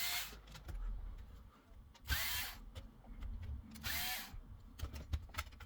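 Electric screwdriver motor running in three short bursts about two seconds apart, each with a quick rising whine, backing screws out of a cable receiver's casing.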